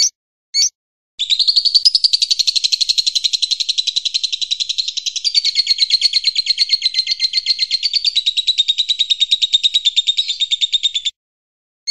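A songbird giving two short high calls, then a long unbroken trill of rapid high notes, about a dozen a second, that lasts some ten seconds and cuts off suddenly near the end. This is birdsong of the kind used as masteran to tutor caged songbirds.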